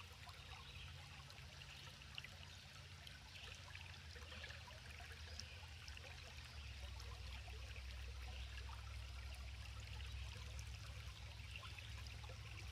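Small forest creek trickling and babbling faintly, with a steady low rumble underneath.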